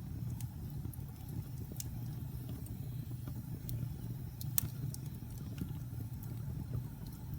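Log fire burning in a fireplace: a steady low rumble of flames with scattered sharp crackles and pops of burning wood, the loudest pop a little past halfway.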